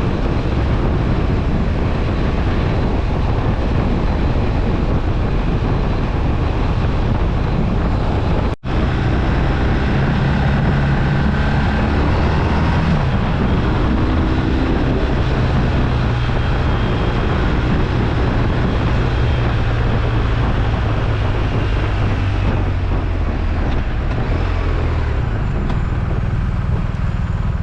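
BMW R1250RT boxer-twin motorcycle running under way, its engine hum mixed with steady road and wind rush, the engine pitch rising briefly about halfway through. The sound cuts out for an instant about a third of the way in.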